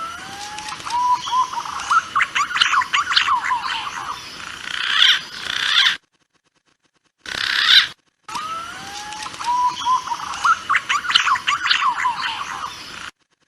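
Green pigeon (punai) calls played back as a hunting lure: a rising whistle leads into a burst of quavering, higher whistled notes. A gap of dead silence comes about six seconds in, then the same call sequence repeats.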